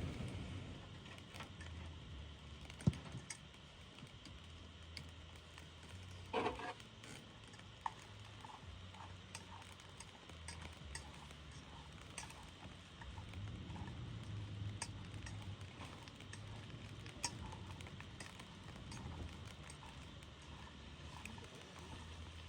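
Faint campfire sounds: scattered small crackles and pops over a low rumble, with a brief louder clatter a little over six seconds in.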